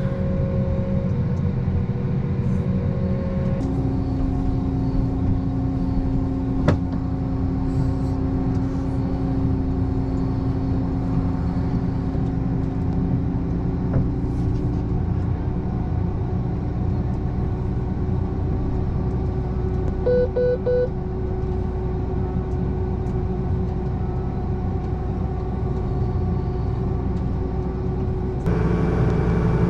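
A vehicle engine runs steadily, heard as a constant drone. Its tone shifts abruptly about three and a half seconds in and again near the end. About twenty seconds in, three short electronic beeps sound.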